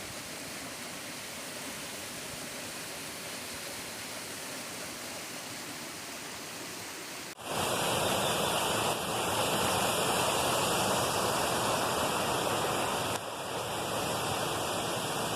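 Waterfall rushing, a steady noise of falling water. About seven seconds in it suddenly becomes much louder and fuller, then eases slightly near the end.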